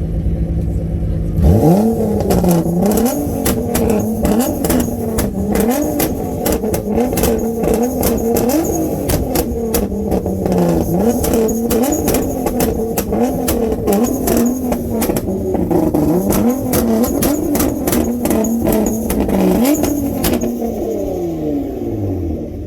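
Nissan GT-R R35's twin-turbo V6 going from idle into repeated hard revs, about ten rising and falling rev bursts, with constant crackling and popping from the exhaust. It drops back toward idle near the end.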